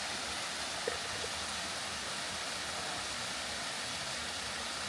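Steady rushing of a waterfall and cascading mountain stream, an even hiss of falling water with no rhythm.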